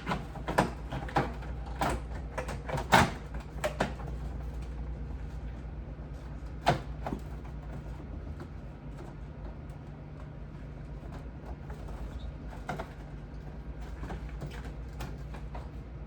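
Knocks and clatter of refrigerator parts being handled: a quick run of knocks in the first few seconds, then a few single knocks, over a steady low hum.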